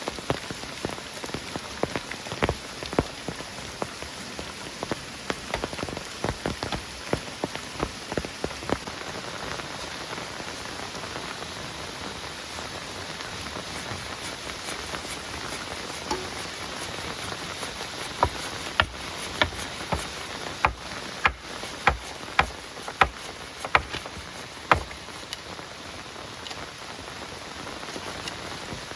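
Rain falling steadily, with loud single drops striking close by at irregular intervals. A run of especially loud drops comes about two-thirds of the way through.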